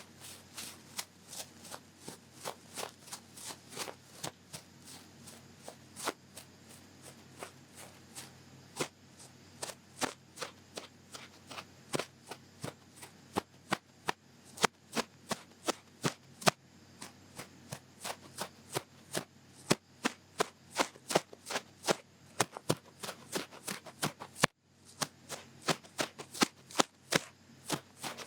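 Ear pick with a long fluffy tip scraping and clicking in the ear of an ASMR microphone: a quick, irregular run of crisp clicks and scratches, several a second, with a brief break near the end.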